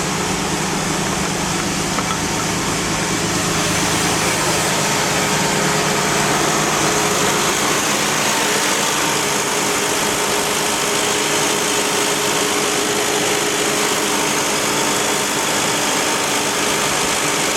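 Drivetrain of a 2001 Toyota Highlander running, heard close to the differential: a steady hum and drone with a faint whine, slightly louder about four seconds in. The owner blames the differential, which has been leaking and is probably low on fluid, along with cupped tires.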